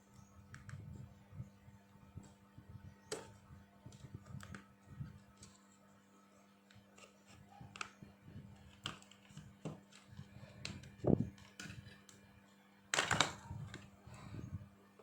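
Scattered light clicks and taps of small objects being handled, with a louder, longer rustling scrape near the end, over a steady low hum.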